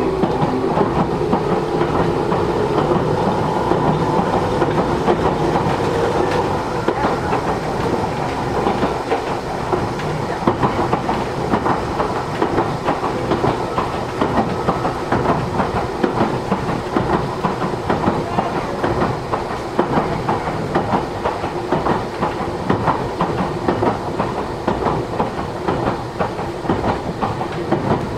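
Matsumoto Electric Railway 3000 series electric train running, heard from inside the passenger car: steady rolling noise and rapid wheel-on-rail clatter. A motor and gear hum is present in the first several seconds and then fades.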